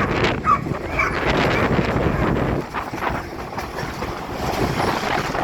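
A passing train's low rumble with wind on the microphone, dropping away about halfway through, while a dog barks.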